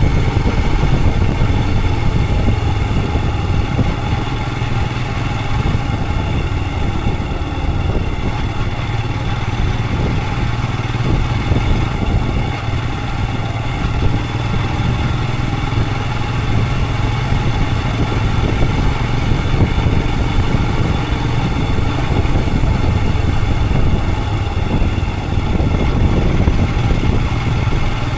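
Royal Enfield Himalayan 411's single-cylinder engine running at a steady, unchanging pitch, over a continuous low rumble of noise.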